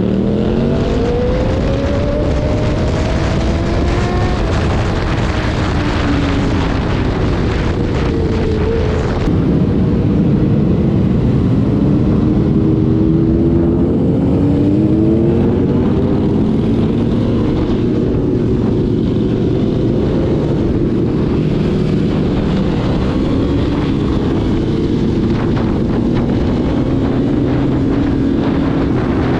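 Motorcycle engine, a Yamaha R3 with a full aftermarket exhaust system, pulling in rising sweeps of engine speed with drops between them as it shifts gears, over steady wind noise from riding. It gets louder about nine seconds in.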